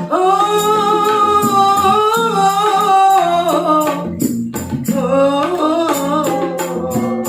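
Street busker's song: a singer holds one long wavering note for about four seconds, then sings a short ornamented phrase, over a steady drum beat with rhythmic percussion strokes.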